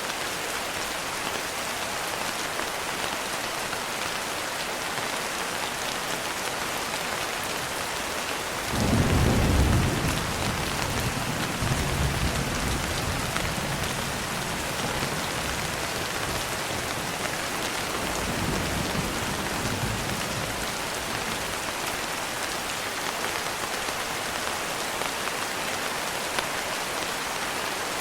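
Steady rain falling, an even hiss throughout. About nine seconds in, a sudden clap of thunder rumbles and rolls for several seconds, with a fainter second rumble near two-thirds of the way through.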